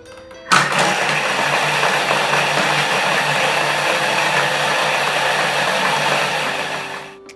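Ice-crushing countertop blender running at full speed, churning ice cubes, ice cream, milk and Oreo pieces into a milkshake. It starts abruptly about half a second in, runs steadily and loudly, and winds down near the end.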